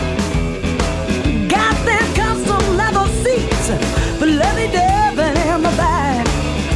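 Blues-rock band playing an instrumental passage: a steady rhythm section under a lead line of bent notes with vibrato.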